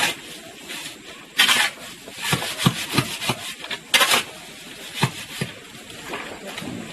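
Several short scraping strokes with a few light knocks between them, like something being rubbed or rasped against wood.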